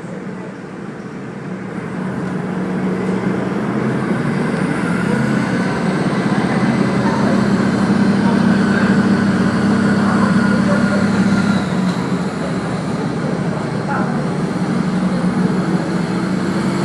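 Diesel railcar of the Kazekko joyful train running, heard from inside: engine drone and rail running noise, growing louder about two seconds in as the train picks up speed, then holding steady.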